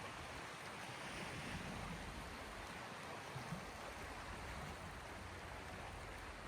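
Small sea waves washing gently on the shore: a steady, soft wash of water with a slightly stronger splash about halfway through.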